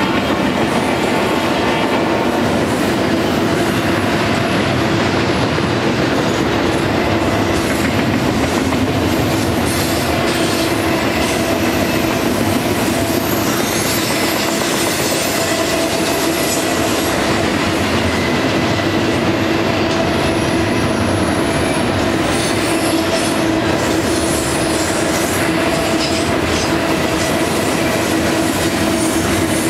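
Double-stack container well cars of a freight train rolling steadily past on curved track: a continuous rumble of steel wheels on rail with a clickety-clack, and steady ringing tones from the wheels. Faint high wheel squeals come and go through the middle.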